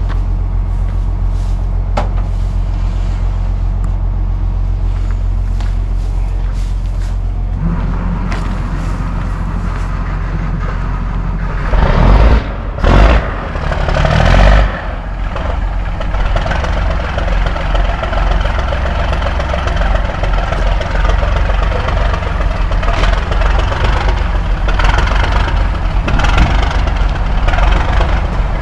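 Diesel engine of a 1964 Mack B model truck running with a steady low drone. It changes about a quarter of the way in, and there are three loud short blasts around the middle. The engine sounds lazy, and the men doubt it is a Mack Thermodyne.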